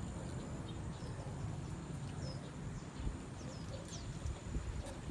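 Outdoor ambience: a steady low rumble with a few short, high chirps from small birds.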